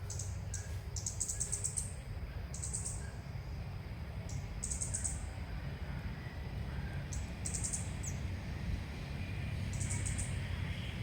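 Ốc mít bird (a bulbul) calling in short bursts of rapid, very high chirps every second or two, over a steady low rumble.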